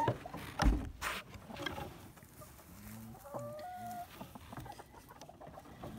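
Hens clucking softly in a chicken coop, with a few short calls about three seconds in. A thump and a brief rustle come about half a second in.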